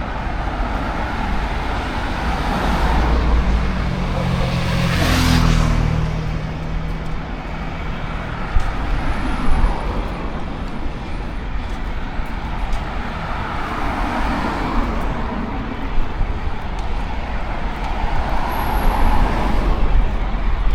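Road traffic: cars passing one after another in swells, with one louder vehicle going by close about five seconds in, its engine drone rising and falling.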